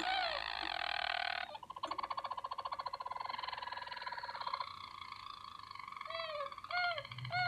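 Canary singing: a run of short downward-sweeping chirps, then a fast, even trill of about three seconds, then the chirps again near the end.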